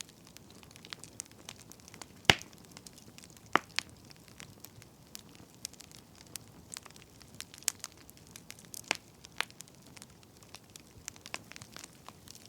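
Burning firewood crackling: irregular sharp pops and snaps over a faint hiss, the loudest snap about two seconds in.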